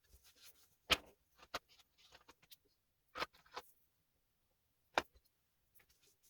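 Oil pastel drawing work on paper: faint scratching strokes with four sharp taps or clicks, about a second in, soon after, around three seconds and again near five seconds.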